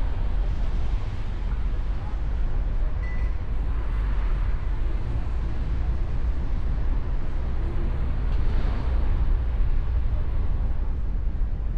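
Open-top Mustang convertible driving: a steady low rumble of wind, road and engine noise.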